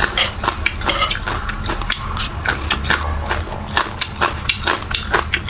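Close-up chewing of a crisp vegetable root: rapid, irregular crunches, several a second, over a low steady hum.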